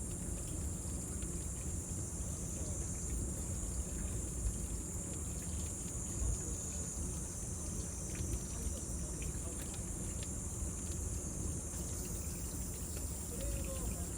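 Cicadas droning in a steady, high, even chorus over the low crackle and rush of a bonfire, with scattered faint snaps.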